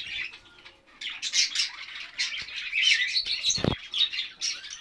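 Small aviary cage birds chirping and squawking in quick, overlapping calls, with one dull thump about three and a half seconds in.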